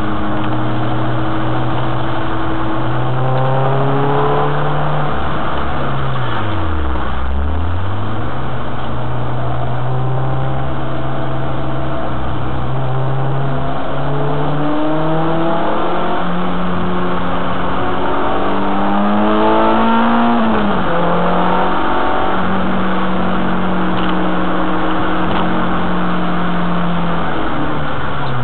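Renault Clio 2 RS's 2.0-litre four-cylinder engine driven hard on track, revving up through the gears with a pitch drop at each upshift. The revs fall right down about seven seconds in and again at the very end, then climb again.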